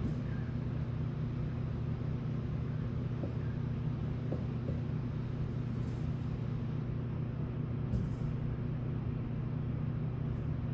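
Steady low mechanical hum with a constant pitch, and a faint click about eight seconds in.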